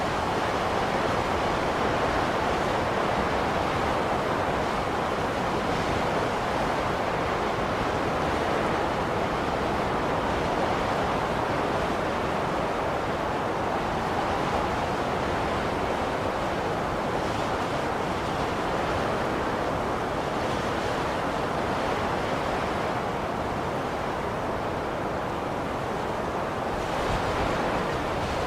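Blizzard wind blowing steadily: a dense, even rush with only slight swells in strength.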